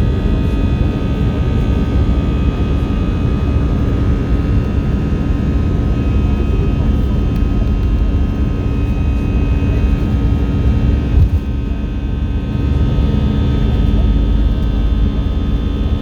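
Airbus A319 cabin noise heard from inside the cabin: a steady low rumble of engines and airflow with several high, steady whining engine tones above it, which shift slightly about twelve seconds in.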